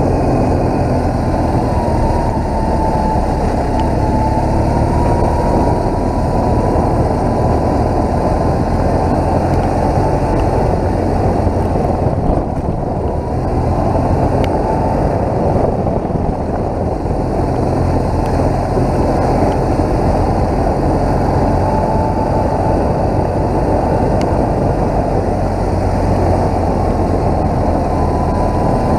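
BMW R1200GS motorcycle's flat-twin boxer engine running steadily under way, mixed with heavy wind and road noise.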